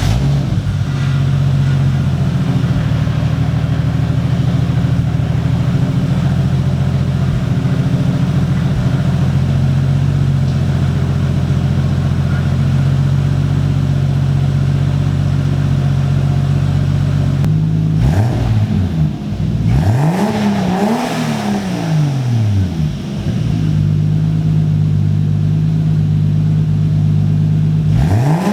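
Toyota 2JZ straight-six in a BMW E30, running through a custom 3-inch stainless steel exhaust. It idles steadily just after starting, is revved twice about two-thirds of the way through, and settles back to idle. Another rev begins right at the end.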